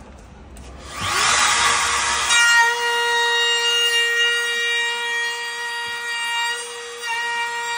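A handheld power tool starts up about a second in with a loud rasping burst as it bites into the material, then runs on with a steady high whine. It is being used to cut deeper into a subwoofer enclosure.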